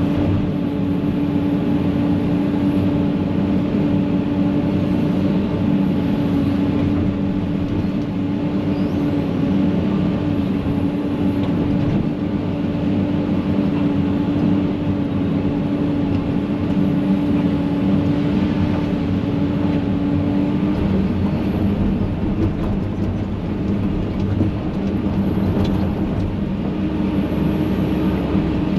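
Excavator's diesel engine running steadily at constant working speed, with a small dip in pitch about two-thirds of the way through.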